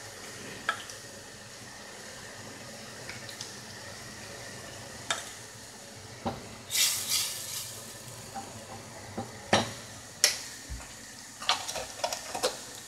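A utensil stirring a pan of cream and cognac peppercorn sauce, with scattered clinks of the utensil against the pan over a steady faint sizzle. The sauce is simmering to reduce down and thicken.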